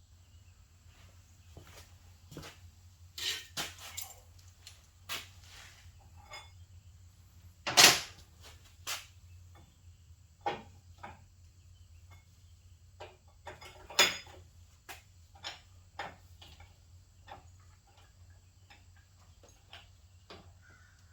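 Irregular knocks, clinks and clanks of metal tools and parts being handled, loudest about eight and again about fourteen seconds in, over a steady low hum.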